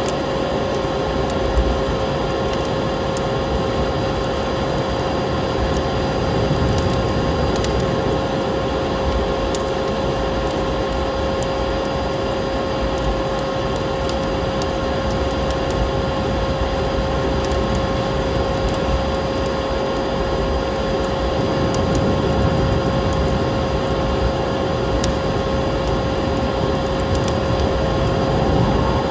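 Vacuum cleaner motor running steadily, a constant drone with a steady whine, layered over a wood fire's sparse crackles and pops.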